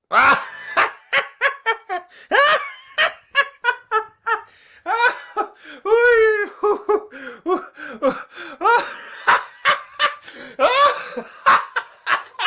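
A man laughing: a hoarse, mocking laugh in rapid repeated bursts, starting abruptly from silence, with breathy gasps between and several drawn-out 'haa' cries that rise and fall in pitch.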